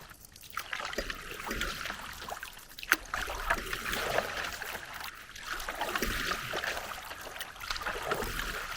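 Paddle strokes through lake water, the splash and swirl swelling and fading every second or two, with water dripping off the blade. One sharp knock about three seconds in.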